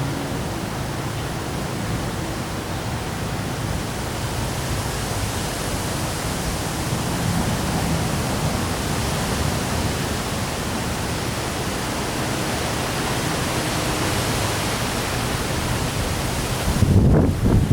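Steady hiss of heavy rain in strong wind. Near the end a gust buffets the microphone with a low rumble.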